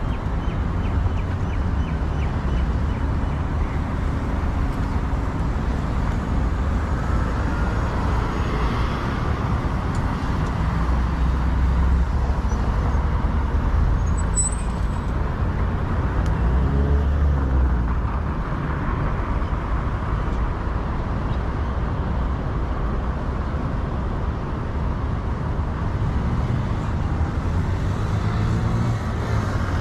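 Dubai Tram running: a steady rumble with a low motor hum whose pitch rises and falls about halfway through and climbs again near the end.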